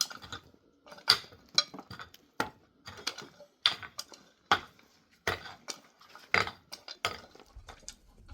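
A dozen or so sharp clinks and knocks of hard objects striking or being handled, irregularly spaced at about one or two a second.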